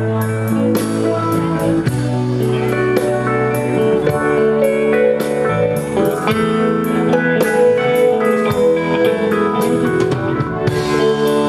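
Live band playing an instrumental break in a slow country-rock ballad: guitar over bass and drums, with a steady cymbal beat.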